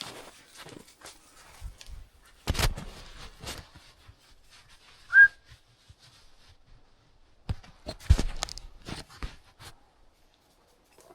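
Footsteps crunching and rustling through brush and dry leaves in two spells, with one short, loud, upward whistle about five seconds in.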